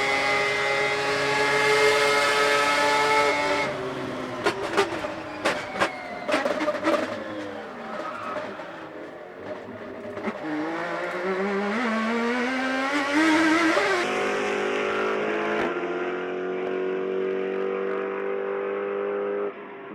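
Race car engines at high revs in a series of edited shots: a steady engine note, then several sharp cracks a few seconds in, then an engine note rising as a car accelerates, and another steady engine note.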